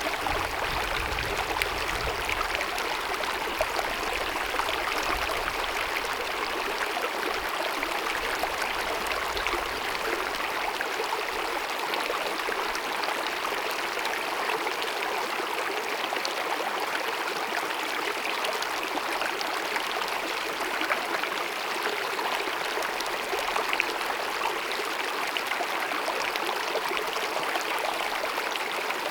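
Small glacier-fed mountain meadow stream cascading and babbling, a steady, unbroken rush of running water.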